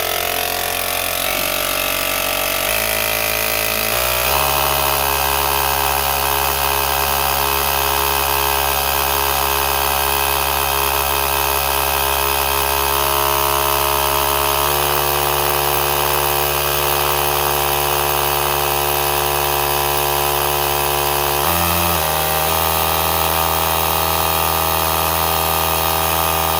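Small piston air compressor driven by a Traxxas Velineon brushless RC motor running hard, building pressure in the tank line. The pitch steps up twice in the first four seconds as the throttle is raised, then holds a steady drone, with a brief shift in speed a little past twenty seconds.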